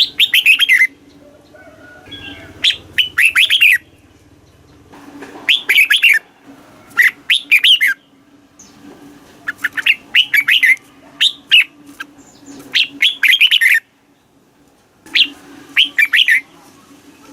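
Red-whiskered bulbul singing: short, loud, bubbly phrases of quick falling whistled notes, repeated every second or so with brief pauses between bouts.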